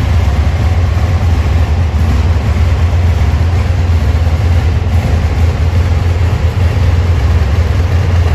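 Aprilia Tuono 1000's V-twin engine idling steadily, a deep low rumble with no revving.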